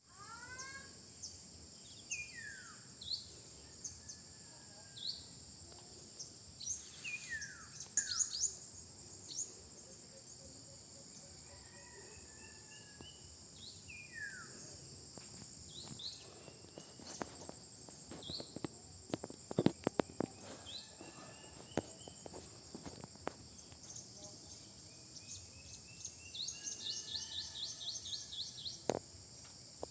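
Insects droning steadily in a high, even band, with birds calling over it in repeated falling whistles and quick rising series. A few sharp clicks or knocks come in the middle.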